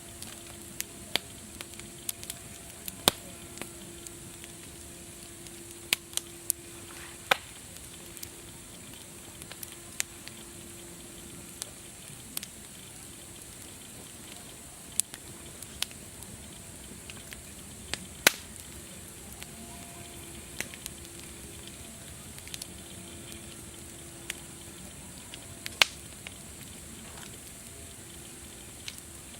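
Wood fire crackling: a steady hiss with irregular sharp pops and snaps, a few of them much louder than the rest.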